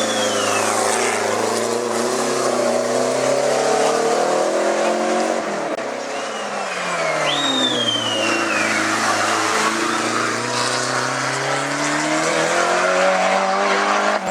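Racing car engine working hard up a hillclimb course, its pitch rising and falling with the throttle and gear changes. It drops away about six seconds in, as the car slows for a corner, then climbs again, with brief tyre squeals about seven seconds in.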